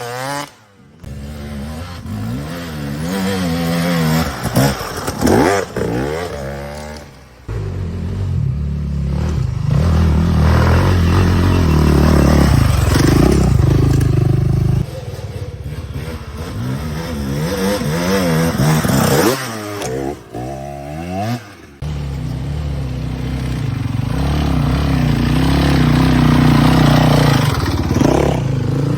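Husaberg enduro dirt bike engines revving hard, the engine note climbing and falling again and again with throttle and gear changes. Several times the sound drops away briefly before the revving picks up again.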